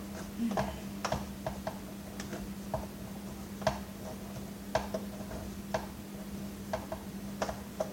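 Hand screwdriver clicking irregularly as it works a screw out of a Dirt Devil Featherlite vacuum cleaner's plastic housing, about one or two sharp clicks a second, over a steady low hum.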